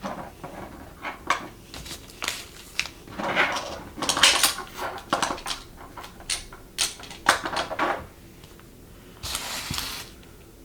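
Small hard items such as bottles, caps and tools being picked up and set down on a tabletop: irregular clicks, clinks and knocks, with a short noisy rattle near the end.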